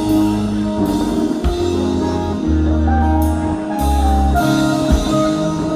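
Live rock band playing: electric guitar, bass guitar and drum kit, with a steady bass line and held notes.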